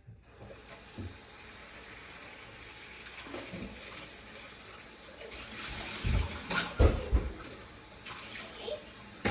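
Kitchen tap running steadily, drawing water for a pot roast pan, followed about six seconds in by a few heavy knocks as something is set down.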